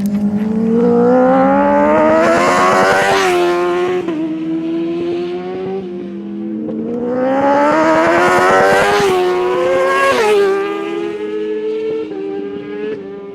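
Superbike race motorcycle engine at full throttle, its pitch climbing steadily twice and each time dropping off sharply about three seconds and ten seconds in, then running on at a lower, steadier pitch.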